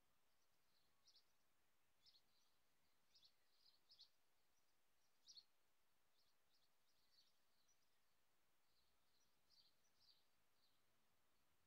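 Near silence with faint, scattered high-pitched bird chirps.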